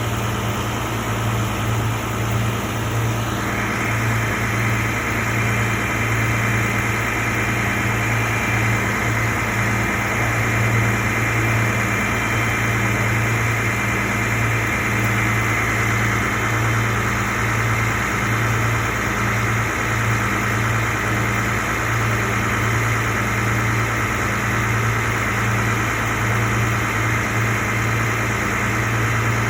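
A vehicle's engine idling steadily with a low even hum; a steady higher hiss joins about three seconds in.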